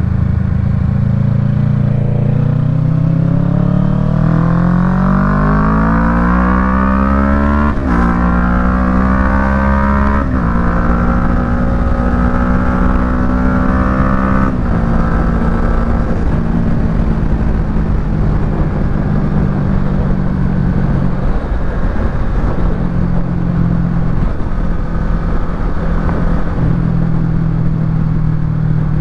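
Kawasaki Ninja 650's parallel-twin engine through a Yoshimura Alpha full exhaust, pulling hard with revs climbing, then upshifting three times with a sudden drop in pitch each time. It settles to a steady cruise with small throttle changes.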